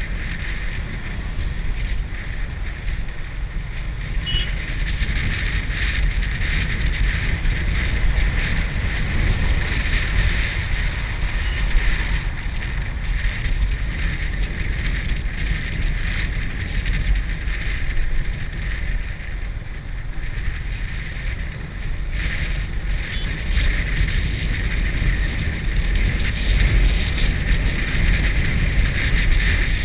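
Wind rushing over the microphone of a moving bike: a steady low rumble with a hiss on top, swelling and easing a little.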